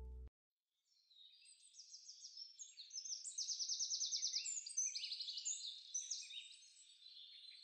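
Small birds chirping, many quick high calls overlapping, fading in about a second in and thinning out near the end. Just before them, a music track cuts off suddenly.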